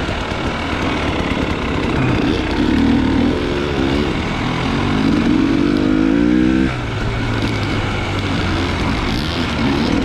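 Dirt bike engine running under throttle, its pitch rising twice, briefly about two to three seconds in and again over about two seconds from five seconds in, then dropping off suddenly as the throttle is closed.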